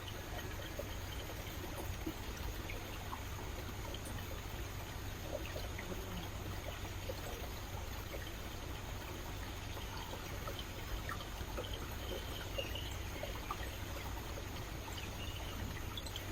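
A stream's water trickling and splashing in an even, steady flow, with many small splashes and drips.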